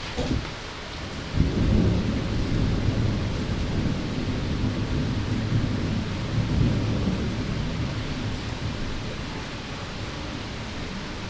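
A roll of thunder starting suddenly about a second in, a deep rumble that slowly dies away, over a steady hiss of rain.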